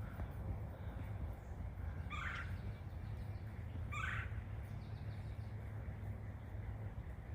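A bird calling twice, two short calls about two seconds apart, over a steady low rumble.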